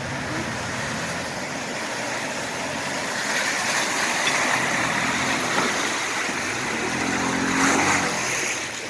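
A Toyota TRD truck driving through a river crossing: its engine pulls steadily under load over the constant rush and splash of water, and the engine note climbs near the end.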